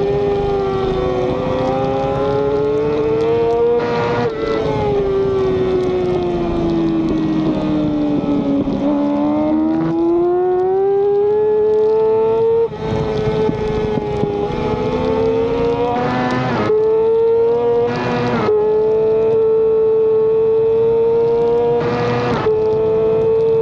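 Racing motorcycle engine at high revs, heard onboard. The engine note drops steadily to its lowest point about a third of the way in, then climbs back and holds high. Short noisy bursts break in several times.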